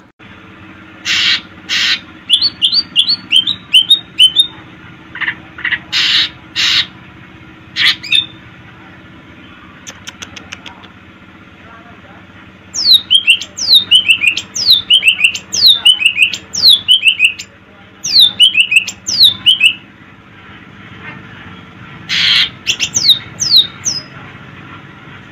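Cucak ijo (green leafbird) calling, a mix of harsh rasping squawks and runs of quick downward-sliding whistled notes. The longest run of whistles falls in the middle, several seconds of rapid repeated notes.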